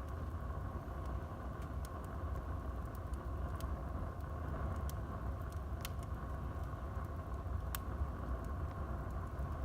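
Wood fire burning in a fireplace: a steady low rumble of the flames with scattered sharp pops and crackles from the burning wood, the loudest about six and eight seconds in.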